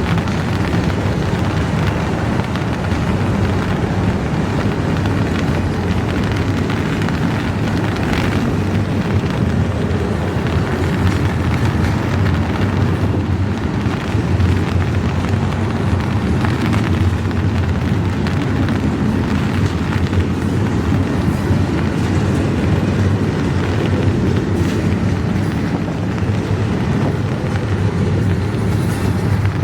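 Long, slow intermodal freight train rolling past, a steady low rumble of its wheels on the rails.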